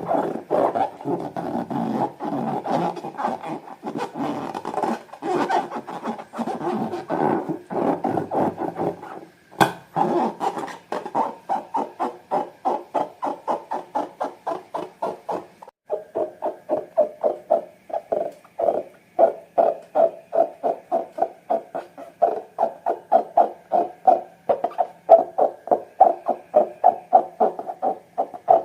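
Slime being squeezed and kneaded by hand, a fast run of wet squelches, about three or four a second, with a break about nine and a half seconds in before the squishing starts again.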